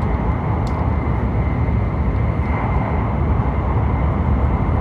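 Steady rumble and rush of an E7/W7-series Hokuriku Shinkansen train running at speed on an elevated viaduct, heard inside the passenger cabin, with a faint high steady tone above the rumble.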